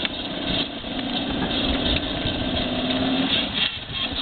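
Battery-powered ride-on toy motorcycle running with a steady hum, which stops a little over three seconds in.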